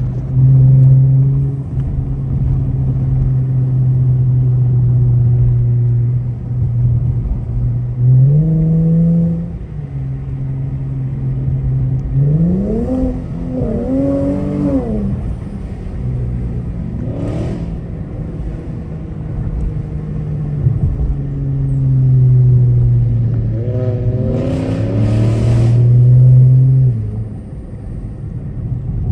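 Car engine idling with a deep, steady note and being revved in short blips: once about eight seconds in, a cluster of quick revs around the middle, a short blip soon after, and a longer rev near the end before it drops back to idle.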